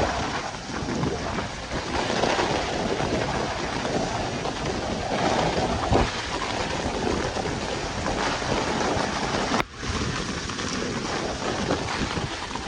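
Heavy rain falling, with wind buffeting the microphone. The sound drops out sharply for a moment about ten seconds in, then comes back.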